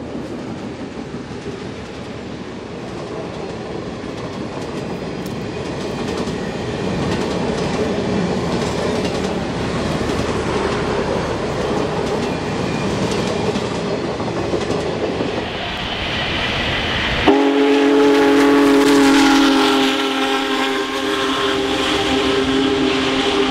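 Union Pacific excursion train's passenger cars rolling past, wheels clattering on the rails, growing louder over the first several seconds. After a sudden cut about 17 seconds in, a train whistle sounds a long, steady chord of several notes over the passing train.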